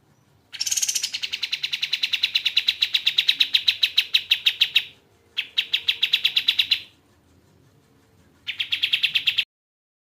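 A kapas tembak bird singing three fast, rattling trills of evenly repeated notes, about nine a second. The first is long and opens on a higher note, the second is shorter, and the third is brief and comes near the end.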